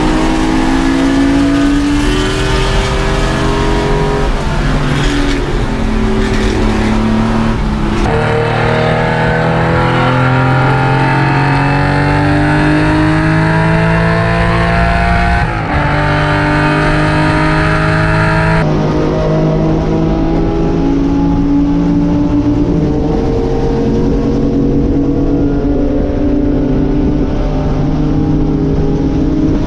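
Racing car engine under hard acceleration, its pitch climbing and then dropping back again and again as it shifts up through the gears. The sound changes abruptly three times: about eight seconds in, about fifteen seconds in, and a few seconds after that.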